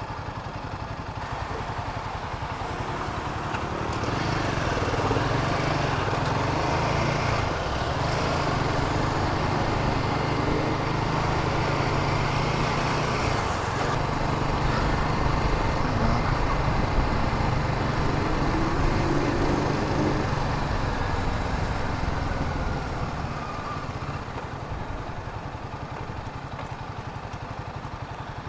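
Royal Enfield Himalayan 450's single-cylinder engine running on the move, louder from about four seconds in and easing off again after about twenty-two seconds, over wind and road noise.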